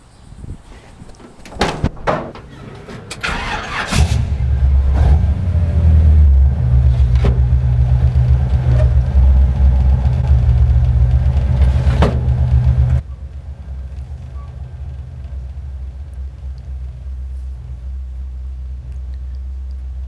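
V8 engine mid-mounted in a Daihatsu Hijet micro truck starting up: a few knocks and clatter, then the engine catches about four seconds in and runs loud and low-pitched. About two-thirds of the way through, the sound drops suddenly to a quieter steady run.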